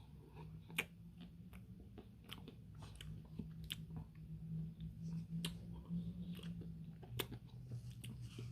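Close-up mouth sounds of a man eating a frozen Dairy Queen Smarty Blizzard: chewing with many irregular sharp clicks, over a low steady hum that drops in pitch about seven seconds in.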